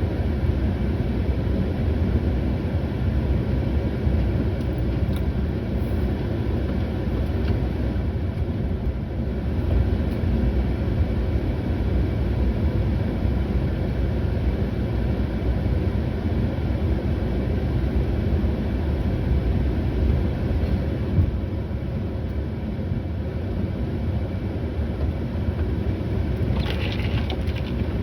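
A vehicle engine rumbling steadily with no break, with a brief hiss near the end.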